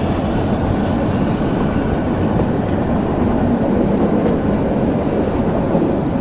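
Narrow-gauge Kalka–Shimla toy train running along the track, a steady rumble of its coaches and wheels on the rails, heard from an open doorway of a moving coach.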